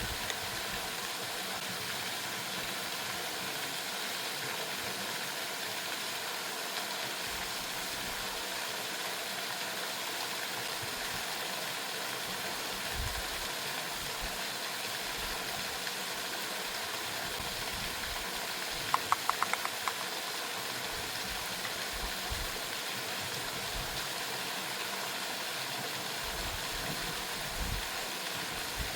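Steady rushing hiss of a waterfall. About two-thirds of the way through comes a quick run of about six light clicks.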